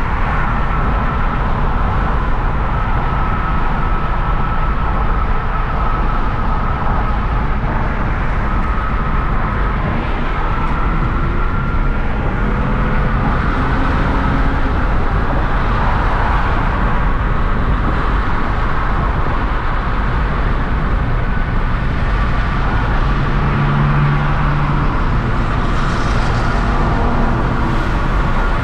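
Hyundai Genesis Coupe 3.8's V6 engine and tyres giving a steady driving noise while cruising, an even rumble with no sharp changes.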